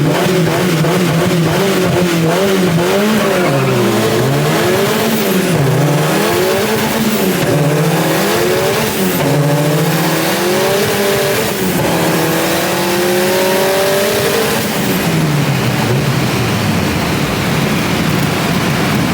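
Twin-engined Saab-powered Mark III Astra van revving repeatedly, its engine note climbing and dropping again and again, then one longer climb that falls away near the end, heard from inside the cab.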